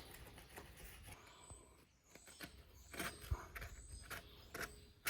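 Putty knife scraping leftover head-gasket residue off the deck of an International Harvester 1066 engine block, in short irregular strokes that grow busier past halfway, with one sharp tick a little after the middle.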